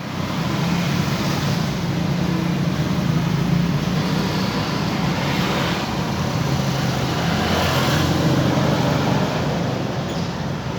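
Small single-cylinder engine of a custom mini monkey bike running steadily, its sound swelling briefly a few times, about a second and a half, five and a half and eight seconds in.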